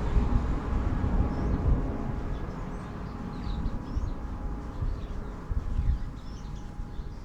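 Low, steady rumble of a train rolling past, with faint steady tones from it that die away, while small birds chirp high above it.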